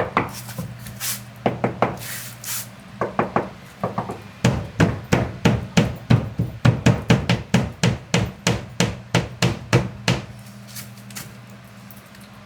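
Hammer blows on wood: a few scattered strikes, then a fast even run of about three blows a second for several seconds that tails off near the end, over a steady low hum.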